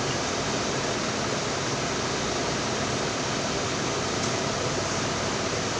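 Repaired vintage electric fan, about 1970s, running with a steady rush of moving air.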